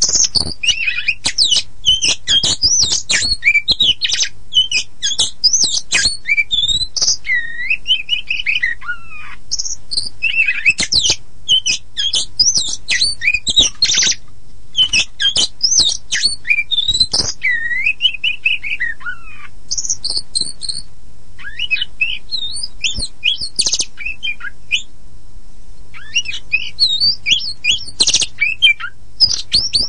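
Oriental magpie-robin (kacer poci) in full song: a fast, varied stream of gliding whistles, rapid chattering trills and sharp clicking notes, with short pauses and a brief lull about three-quarters of the way through.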